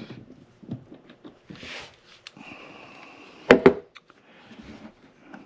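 Metal tool work on a wiper arm's 13 mm bolts: scattered small clicks of a socket wrench, then a loud double clunk about three and a half seconds in.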